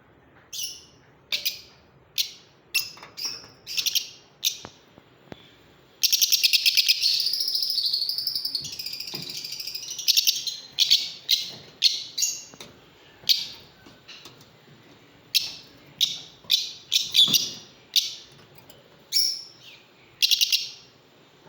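Lovebirds calling: a string of short, high-pitched chirps, with a dense run of rapid chattering calls from about six to ten seconds in.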